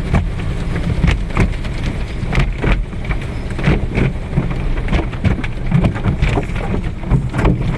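Automatic car wash spraying water and cleaner onto the car body: a dense drumming wash of spray with irregular sharp spatters and hits, over a low rumble.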